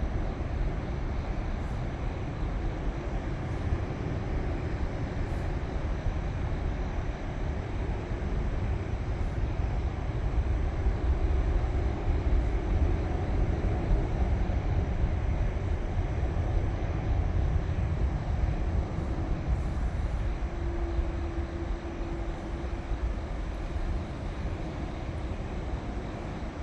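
Airplane passing overhead: a low, steady rumble that builds to its loudest about halfway through and then slowly fades.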